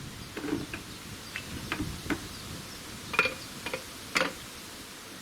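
Sticks of kindling wood dropped into a homemade tandoor, knocking against each other in scattered irregular clicks, with a couple of louder knocks about three and four seconds in.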